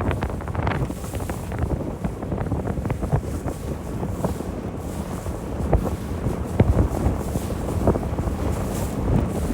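Motorboat under way: engine and water rush with wind buffeting the microphone, and a few dull thumps in the second half.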